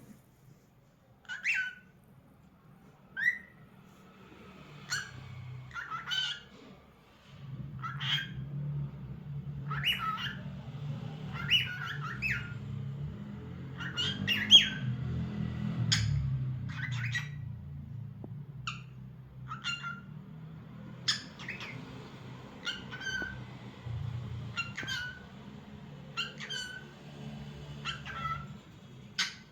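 Cockatiel chirping in short, sharp calls, one every second or two, over a low steady hum.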